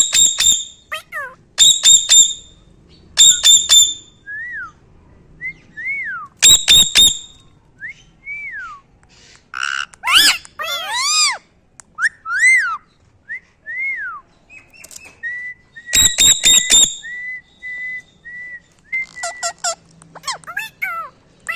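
Pet parrot calling: short harsh squawk bursts, repeated several times, between many short rising-and-falling whistled chirps. About ten seconds in comes a louder call with many overtones, and a long steady whistle follows in the second half.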